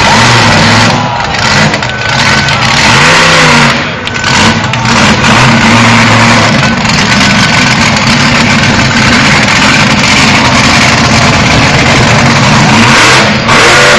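Monster truck engine revving hard and very loud, its pitch rising and falling several times over the first few seconds, then held at high revs.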